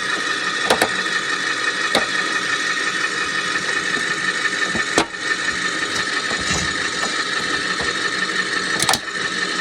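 Pickup truck engine idling steadily, with a steady whine and a few sharp clicks and knocks.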